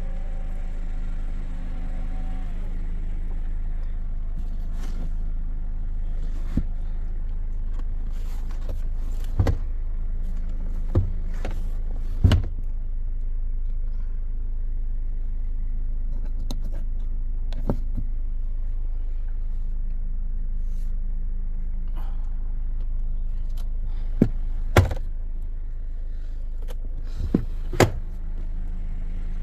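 Chery Tiggo 8 Pro Max idling with a steady low hum, with a few sharp knocks and clicks scattered through.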